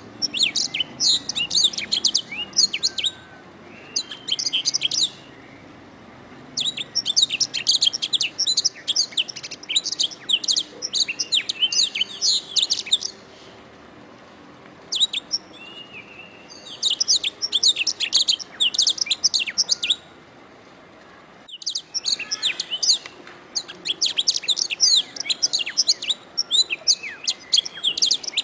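Domestic canary singing: long phrases of fast, high trills and chirps, broken by short pauses every few seconds.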